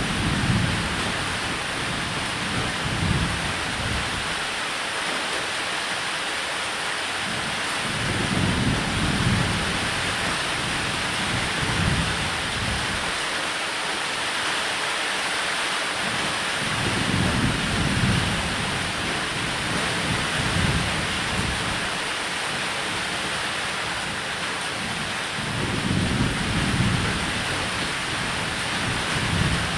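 Steady heavy rain falling on a roof, with low thunder rumbling in repeatedly, about every eight to nine seconds.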